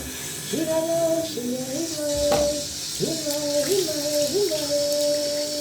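A single voice singing long, held wordless notes, sliding up into each one, with a short wavering figure in the middle and a long held note near the end, over a steady hiss.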